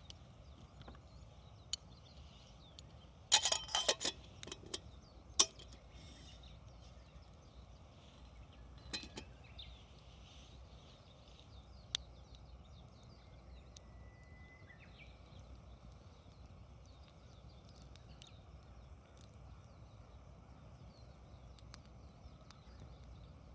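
Wood campfire crackling, with a quick burst of sharp pops about three seconds in and single pops scattered after, over a steady low background rumble.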